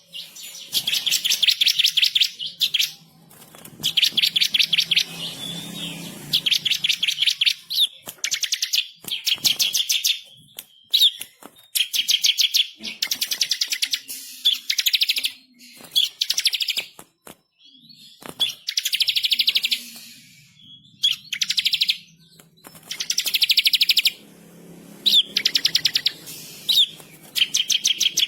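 Bar-winged prinia (ciblek kristal) singing loudly in repeated bursts of fast, rolling trills, each about one to two seconds long with short pauses between.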